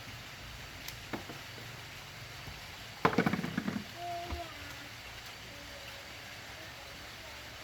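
A quick burst of rapid clattering knocks about three seconds in, lasting under a second, with a couple of single ticks before it and a short faint squeak just after.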